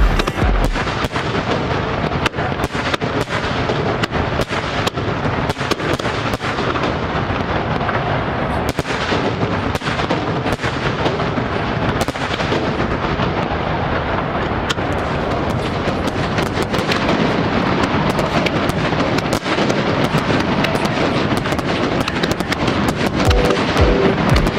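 A continuous barrage of aerial fireworks, bursting and crackling with many reports a second that run together. Show music comes back in near the end.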